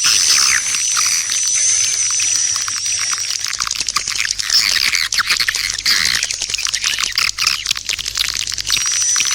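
Swiftlet calls played as a lure track: a dense, continuous stream of rapid high chirps and twitters, the sound used to draw edible-nest swiftlets into a swiftlet house.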